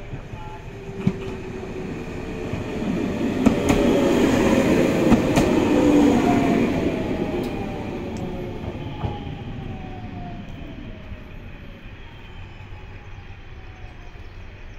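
A single-car JR Shikoku Series 7000 electric train coming in to stop at a station. It grows louder, passes close by about five seconds in with a few sharp clicks from its wheels, then fades as it slows, with a whine falling in pitch.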